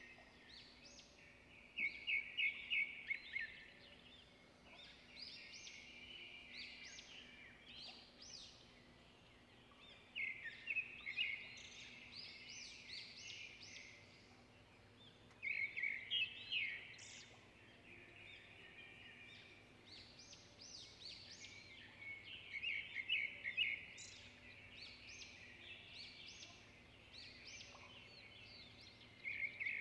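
Birds chirping, with short rapid trilled phrases every several seconds.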